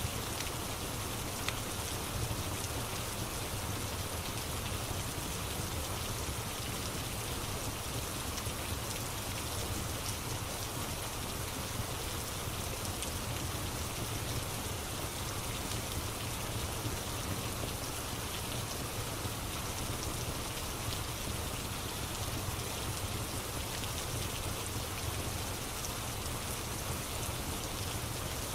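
Steady rain falling, with a few faint crackles from a fireplace.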